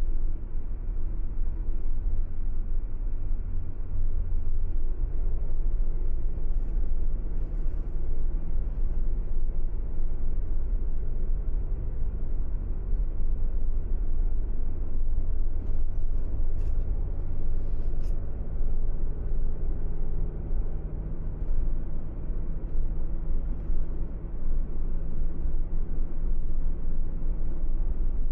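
A car driving at steady speed: a continuous low road-and-tyre rumble under a steady engine hum, whose note steps up about five seconds in and shifts again a few seconds later.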